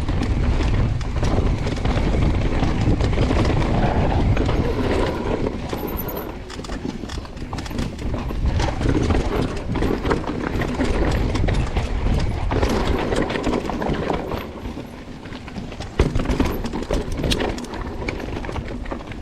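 Mountain bike rattling and clattering over rough trail, with wind rumbling on the microphone and a harder knock near the end.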